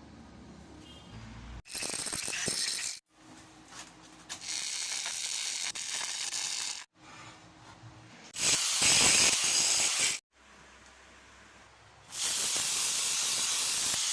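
TIG welding arc on aluminum, a harsh hissing buzz in four separate bursts of about one and a half to two and a half seconds each, with quieter gaps between them.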